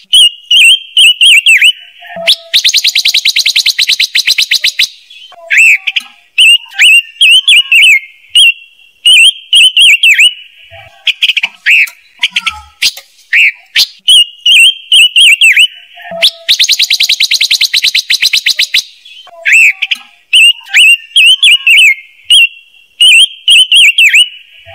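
Looped lure recording of the songbird sold in Vietnam as 'ngũ sắc', for bird-trap speakers. Quick runs of short whistled notes that bend up and down are broken twice by a dry, rapid chattering rattle about two seconds long, and the same sequence repeats about every 14 seconds.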